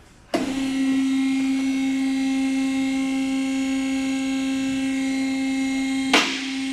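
Electric hydraulic pump motor of a car lift switching on and running with a steady, even-pitched hum as the car body is raised, with a short clack about six seconds in.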